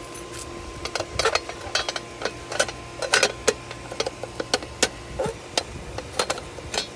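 Irregular clicks and knocks from handling something close to the microphone, several a second, over a steady electrical hum.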